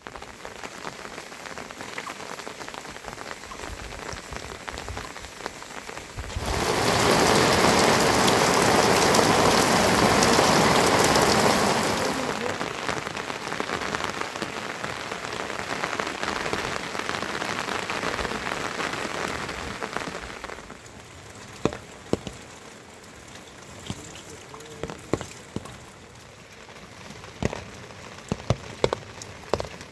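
Rain falling, coming down harder for several seconds near the middle, then easing to a light patter with separate drops striking close by.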